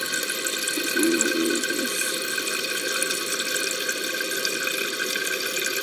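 Toilet tank fill valve running, a steady hiss of water refilling the open tank after a half flush.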